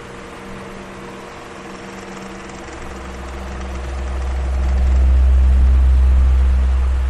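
Electric fan running steadily: a motor hum with a rush of air, and a deep rumble of air on the microphone that swells to its loudest about five to six seconds in, then fades.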